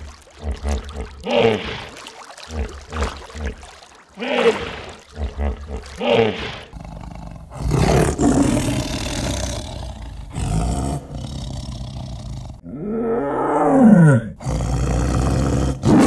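Big-animal calls: a run of short, low grunting calls about every second or two, then tigers vocalizing with a long rough call from about eight seconds in and one drawn-out call that rises and falls in pitch near the end.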